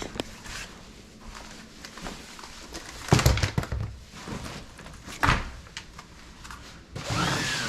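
Items being put away in a storage closet: low handling noise, a couple of sharp knocks and thuds about three and five seconds in, and a longer sliding sound near the end.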